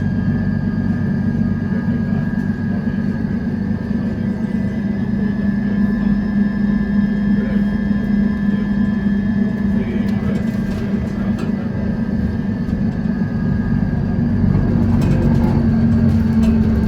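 Mercedes-Benz city bus engine running steadily: a low drone with a faint high whine above it, picking up slightly near the end. A few light rattles come about ten seconds in.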